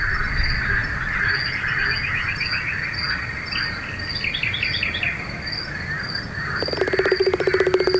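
Frogs and birds calling together: a steady chorus with a high trill repeating at an even pace, and twice a songbird's quick run of notes. Near the end a loud, rapidly pulsing low croak starts up.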